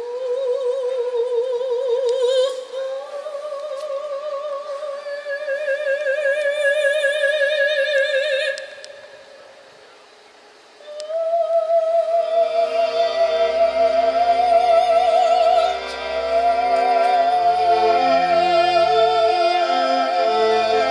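Classical concert music. A single unaccompanied operatic voice holds long, slow notes with wide vibrato and fades out about nine seconds in. After a short pause, a symphonic ensemble comes in with a bass line and sustained chords under a vibrato melody.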